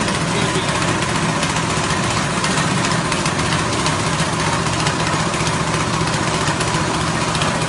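Rice husk grinding machine driven by a 6.5 hp petrol engine, running steadily.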